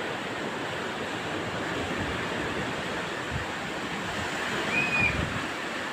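Sea waves washing on the shore, with wind buffeting the microphone. Near the end there is one short, high whistle.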